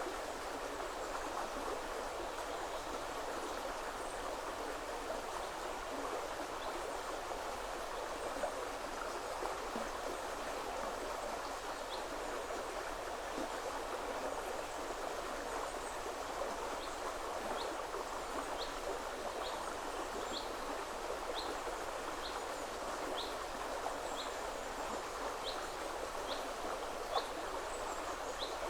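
Woodland river flowing steadily. Through the second half a bird repeats a short high call about once a second.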